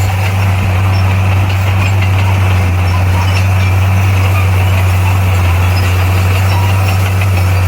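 Bulldozer's diesel engine running steadily, a deep even drone with no change in pitch.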